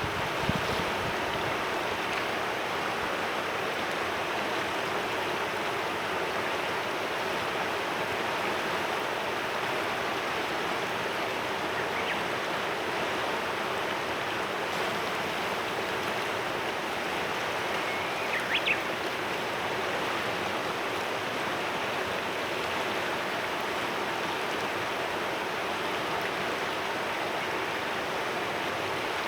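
Clear mountain river flowing steadily over stones, an even rushing murmur. A brief single bird chirp cuts through about two-thirds of the way in, and a gust of wind bumps the microphone right at the start.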